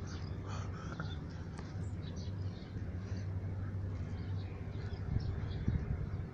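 Birds calling now and then over a steady low hum, with a few soft knocks about five seconds in.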